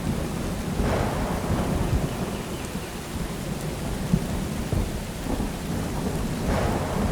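Steady rain with thunder rumbling low throughout, swelling about a second in and again near the end.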